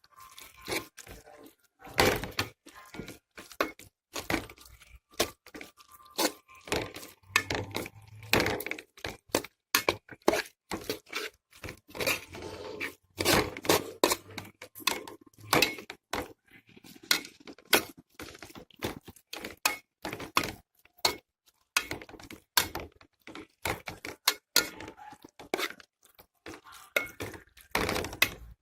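A cooking utensil scraping and knocking against a pan, in irregular clacks, as a sauce is stirred.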